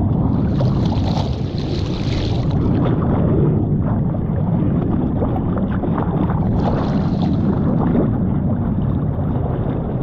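Wind buffeting the microphone over rushing sea water, a steady low rumble with two hissing swells of spray or wash, one near the start and one past the middle.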